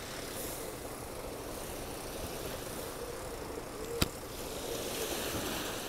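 Tractor engine running steadily against a background of surf and wind noise, with a single sharp click about four seconds in.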